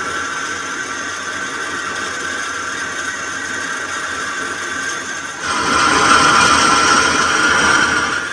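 Metal lathe running with a steady whine while turning an iron bush for a sugarcane juicer roller. About five seconds in, a louder, harsher cutting noise joins for nearly three seconds, then stops abruptly, as the cutting tool bites into the metal.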